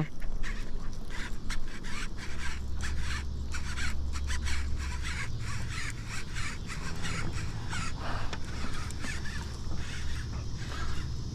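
Birds calling over and over in short, quick calls, with a low steady hum underneath from about two seconds in.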